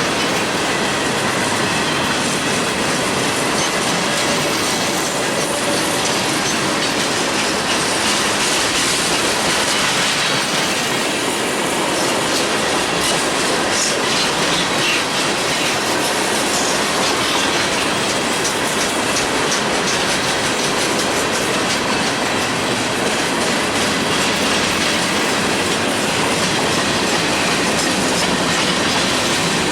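Freight cars of a manifest train rolling past at steady speed, wheels clicking over rail joints, with occasional faint wheel squeal.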